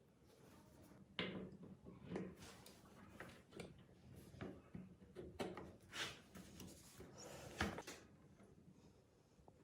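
Faint, irregular knocks, clicks and scrapes of parts and tools being handled on a workbench, with the two loudest knocks about a second in and near the end.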